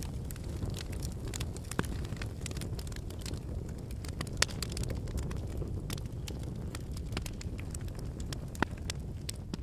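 Wood campfire burning: a steady low rush of flame with frequent sharp crackles and pops from the burning logs, two louder pops about halfway through and near the end.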